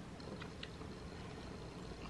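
Faint mouth sounds of someone chewing a cooked asparagus spear, with a couple of soft clicks about half a second in.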